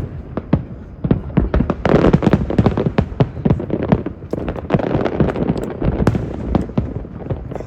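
Aerial fireworks going off in quick succession: many sharp bangs a second with crackle between them, densest about two seconds in and again around five seconds.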